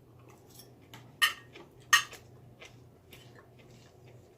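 Cutlery clinking against a dish during a meal: two sharp clinks about three-quarters of a second apart, with lighter taps and ticks around them.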